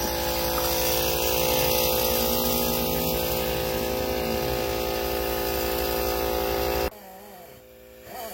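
A motor running steadily with a fast, even buzz, cutting off abruptly about seven seconds in.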